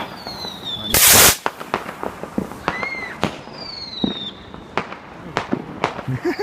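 Fireworks going off: a loud burst about a second in, many sharp bangs and pops, and several high whistles that fall in pitch.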